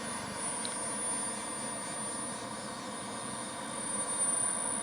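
Twin small jet turbines of a home-built Panavia Tornado model jet running, a steady rushing noise with a thin, high, steady whine over it.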